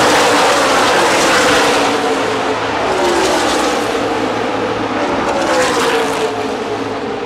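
NASCAR Nationwide Series stock cars' V8 engines running past in a pack, each engine note falling in pitch as it goes by.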